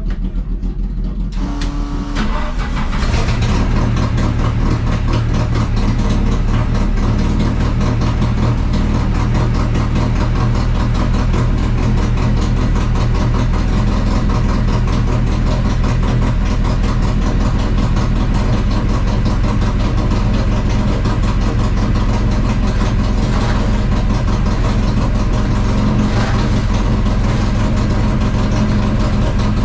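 Carbureted four-cylinder engine of a Chevrolet Caravan race car, heard from inside the car. It gets louder about three seconds in, then holds a steady, unchanging note.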